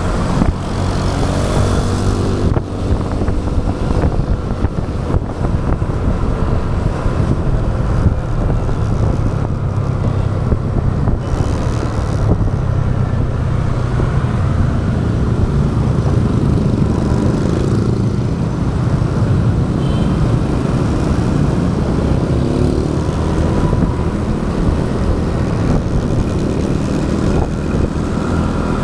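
A motorcycle's engine running steadily at riding speed, with road and traffic noise around it.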